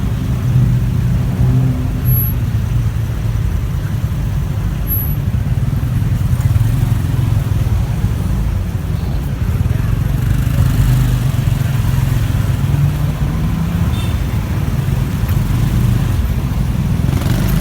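Motorcycle engine running steadily while riding through city traffic, with a constant low rumble and the sound of surrounding vehicles.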